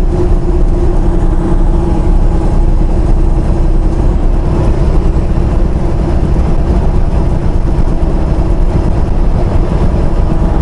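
Inside the cab of a semi-truck on the move: the engine and road noise make a loud, steady low rumble with a constant hum.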